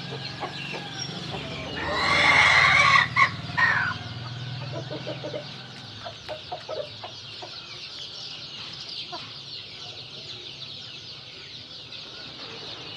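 A rooster crowing loudly once, about two seconds in, followed by a few short clucks around five and six seconds in, over steady high twittering.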